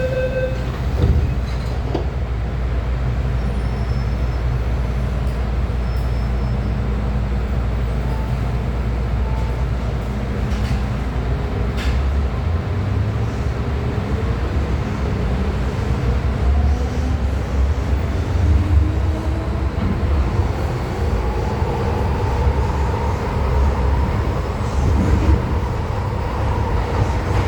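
Hong Kong MTR M-Train electric multiple unit heard from inside the car as it pulls away from a station. A steady low running rumble is joined about halfway through by a traction-motor whine that rises in pitch as the train gathers speed.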